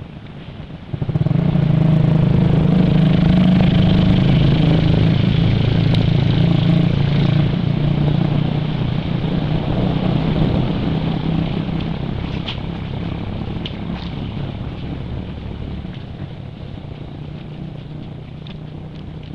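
A vehicle engine running close by, coming in suddenly about a second in and then slowly fading away.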